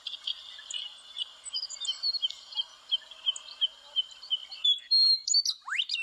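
Western meadowlark calling outdoors: a run of short, sharp chirps about three a second, then near the end a quick whistle that rises steeply in pitch, before the sound cuts off suddenly.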